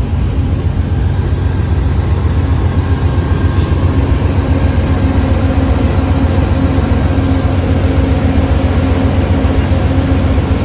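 GE P42DC diesel locomotives, V16 engines, running while standing at the platform: a loud, steady low rumble with rattling.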